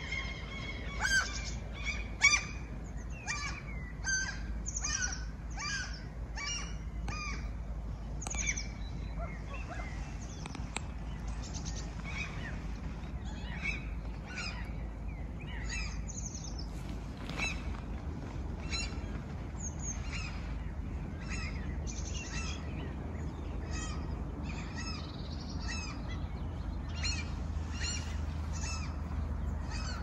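Several songbirds chirping and calling, with many short chirps one after another and the loudest ones in the first few seconds. A steady low rumble runs underneath.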